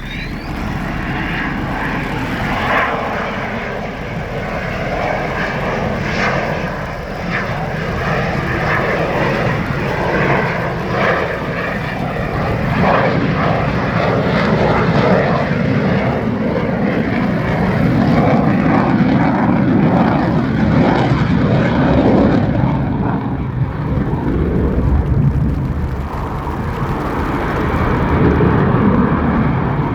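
Belgian Air Force F-16AM fighter jet flying a display, its single jet engine making loud, continuous noise that swells and eases as it manoeuvres, heaviest and deepest about two-thirds of the way in.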